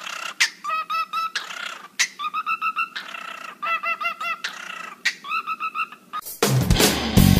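Parrot giving about five bursts of quick, repeated chirps. Loud electric guitar and bass music starts about six seconds in.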